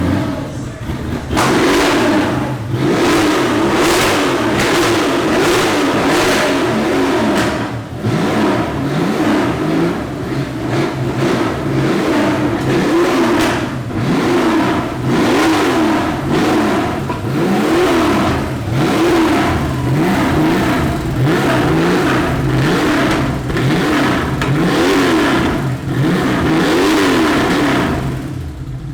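A car engine revved over and over while it stands, its pitch climbing and dropping again roughly once a second. The revving is loud.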